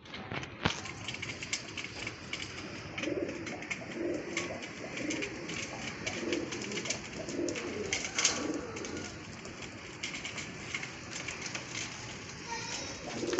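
Racing pigeons cooing, a string of low repeated coos, over a steady scatter of short clicks and scuffs.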